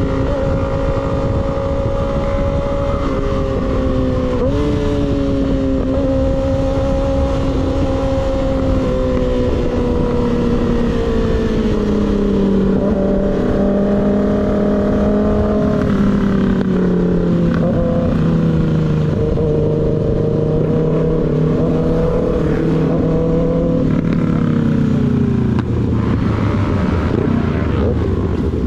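Motorcycle engine running under way, its pitch holding fairly steady with small steps and drifts. Near the end it sinks lower as the bike slows. A steady rush of noise runs underneath.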